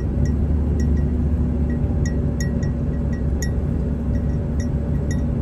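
Steady low road rumble inside a moving vehicle, with a small pet bird chattering in short, high chirps repeated through it.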